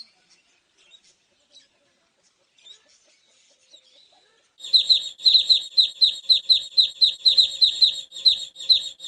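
A bird calling with a fast, even run of sharp high chirps, about three or four a second, starting about halfway through after a few faint scattered sounds.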